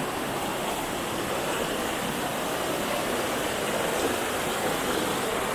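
Waterfall water rushing steadily over rock, a constant even noise with no breaks.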